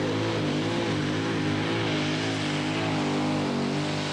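Pulling tractor's engine running at high power during a pull, its pitch wavering up and down and dipping slightly near the end.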